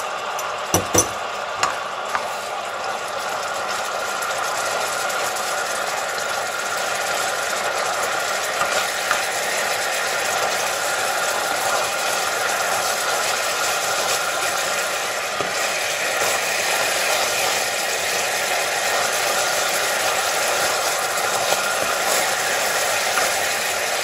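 Panang curry paste frying in coconut cream that has split and released its oil: a steady sizzle and bubbling, with a spoon stirring and scraping in the pan. A few sharp spoon clicks come about a second in.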